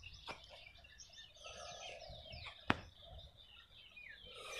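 Birds calling outdoors in a garden, with a run of short falling chirps. Two sharp clicks stand out, one just after the start and one near three seconds in.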